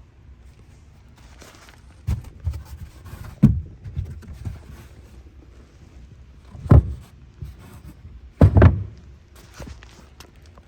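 A series of dull thuds and knocks, irregularly spaced, with the loudest single knocks about three and a half and seven seconds in and a double knock near the end.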